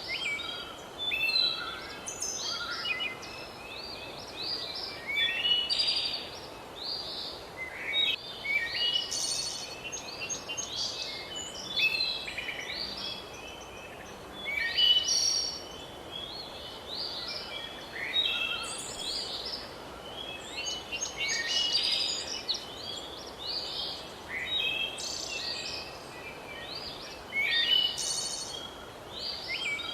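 Wild birds singing and calling: many short chirps and trills, one after another, over a steady background hiss.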